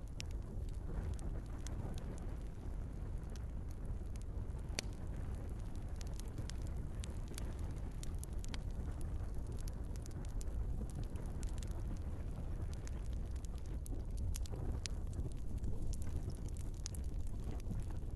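Log fire crackling in a fireplace: a steady low rumble of flames with frequent sharp pops and snaps from the burning wood.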